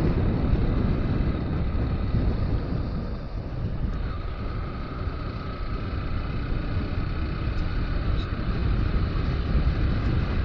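A Bajaj Pulsar NS160 motorcycle being ridden at road speed, heard through a helmet-mounted camera's microphone as a steady low rumble of wind buffeting and road noise. A faint steady whine joins about four seconds in.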